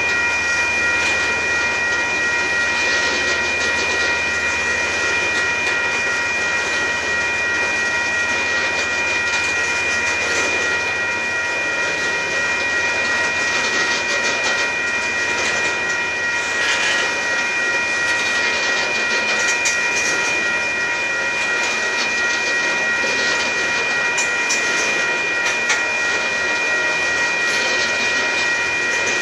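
Loaded freight cars of a Union Pacific gravel train rolling past, wheels clattering over the rail joints in a steady rumble. A steady high-pitched whine rings over it throughout.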